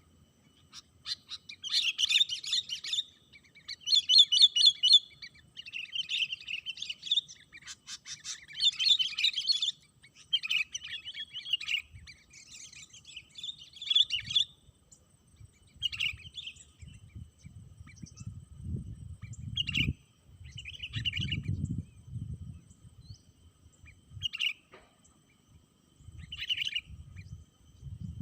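Sooty-headed bulbuls (kutilang) calling: runs of rapid chirping notes for the first dozen seconds, then shorter calls every second or two. Some low rumbling comes in during the second half.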